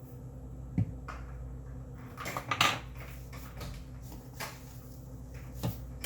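Kitchen handling sounds while spices are measured onto chicken: a sharp knock about a second in, a brief flurry of shaking or scraping strokes at about two and a half seconds, then a couple of light taps, over a steady low room hum.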